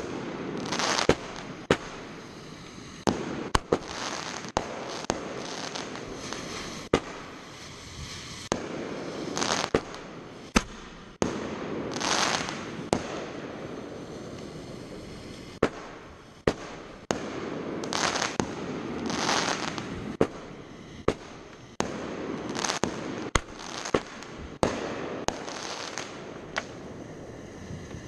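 Fireworks display: many sharp bangs of bursting shells at irregular intervals, with stretches of hissing crackle lasting a second or so between them.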